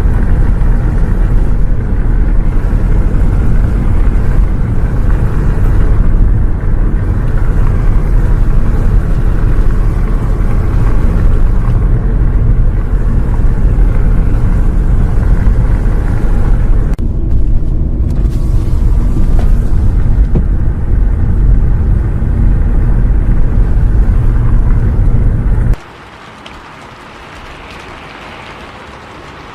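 Steady, loud low rumble of a bus travelling in the rain, road and engine noise mixed with the hiss of rain. Near the end it cuts off abruptly to a much quieter hiss.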